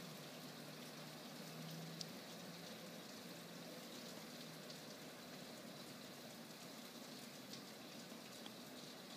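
Steady rain falling on a wet street and roofs: a soft, even hiss with scattered drip ticks.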